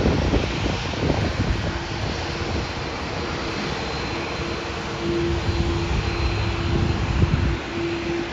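Jet airliner engines running: a continuous rushing noise with a steady whine held underneath, which grows stronger about halfway through.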